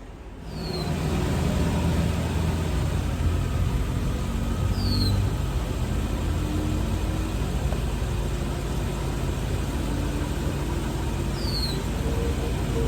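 Mercedes 560SL's 5.6-litre V8 idling steadily; it gets much louder about half a second in.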